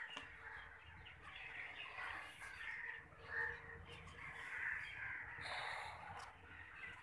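Faint birds calling repeatedly.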